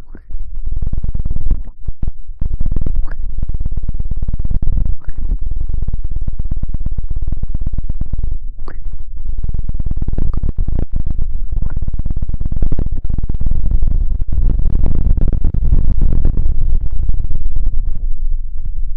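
Loud, dense crackling and scrubbing right on the microphone, heavy in the low end and overloading the mic. This is a harsh 'Chidori' ASMR trigger. It starts just after the beginning and eases off near the end.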